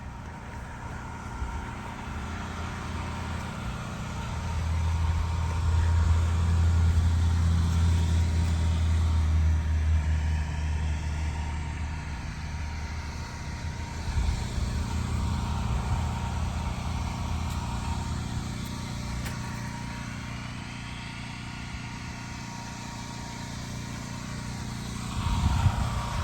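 A motor vehicle driving, with a steady low engine and road rumble that grows louder for several seconds a few seconds in, then settles.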